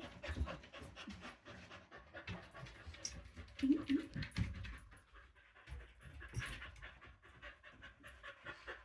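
A dog panting: a long run of quick, short breaths.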